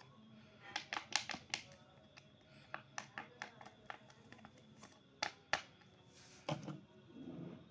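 Small sharp plastic clicks and taps from a Beyblade spinning-top toy and its parts being handled, quickest about a second in, then a brief rustle and a few dull bumps near the end.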